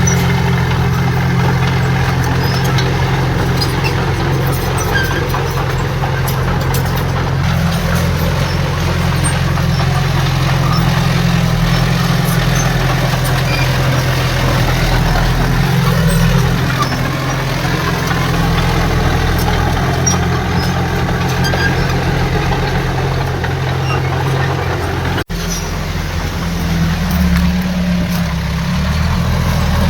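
Heavy diesel earthmoving machinery running steadily with a deep, even engine hum. About 25 seconds in there is a momentary break, after which the engine note shifts.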